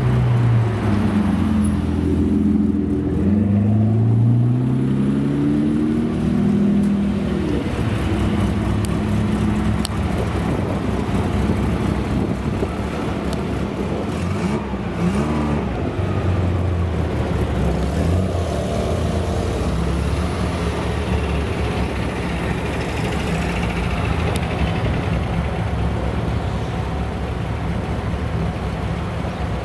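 Classic car engines running as cars drive by; in the first several seconds one engine's pitch rises and falls as it revs and passes, then a steadier engine drone with road noise continues.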